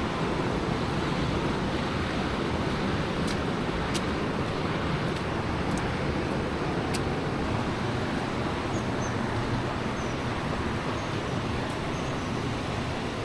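Steady wash of rain and street noise, with a few sharp ticks a few seconds in.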